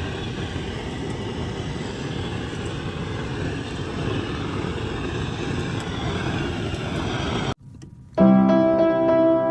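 Steady low rumbling background noise that cuts off abruptly about seven and a half seconds in. After a short quiet gap, piano music starts near the end.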